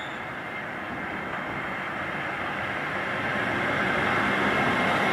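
A train approaching on the East Coast Main Line: a steady running noise that grows louder throughout, with a high steady tone coming in near the end.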